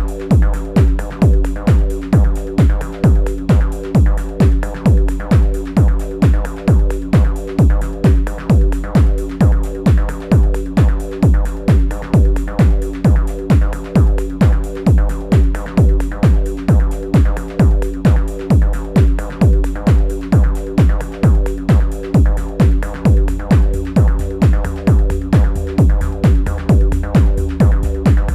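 Elektron Analog Rytm drum machine playing improvised techno: a steady kick about twice a second under fast hi-hats and held steady tones. Near the end a sustained low bass fills in beneath the kick.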